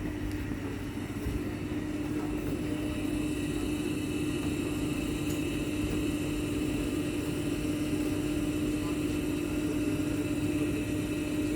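Suburban electric train standing at the platform with a steady electrical hum, one low tone with a fainter high whine above it and a low rumble beneath.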